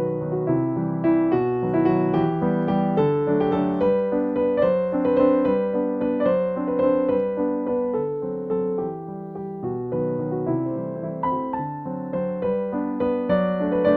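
Background piano music, a gentle melody played over chords.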